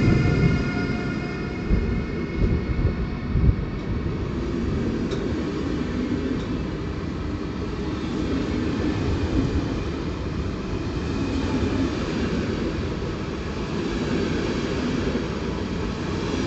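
Passenger train running at the station with a steady low rumble, a few heavier knocks in the first few seconds. A whine with several pitches fades out near the start.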